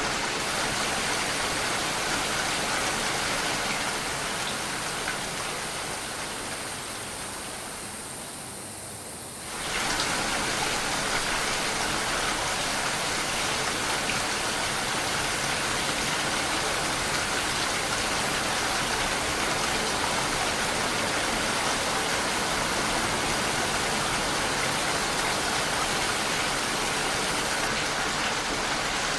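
Steady heavy rain, a dense even hiss. About four seconds in it fades gradually quieter and duller for several seconds, then comes back full strength abruptly about nine and a half seconds in.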